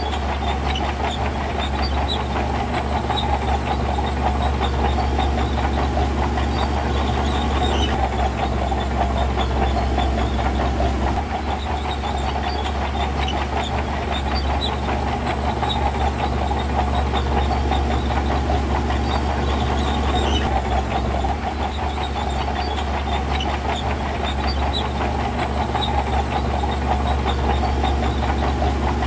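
Heavy diesel earthmoving machinery running steadily under load, a continuous low engine drone with a dense clattering rumble over it.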